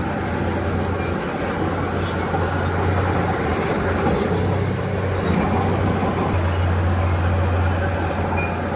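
Diesel engine of heavy earthmoving machinery running steadily under load, a low hum beneath broad mechanical noise, easing slightly twice.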